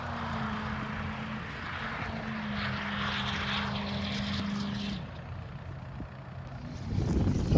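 Duramax diesel engine of an off-road trophy truck running steadily under power, then easing off about five seconds in, followed by a louder rushing surge near the end.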